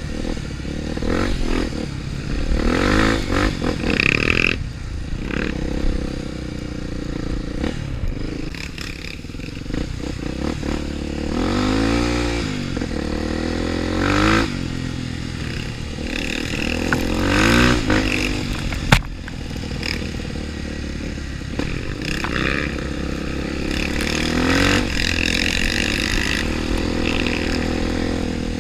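Trail motorcycle engine running and revving up and down over and over as it is ridden, with scraping and clattering along the way. One sharp knock comes about nineteen seconds in.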